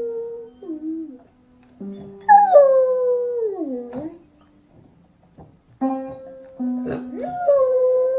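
A dog howling along to music: two long howls, each starting high and sliding down in pitch, the first about two seconds in and the second starting near the end, between steady held musical notes.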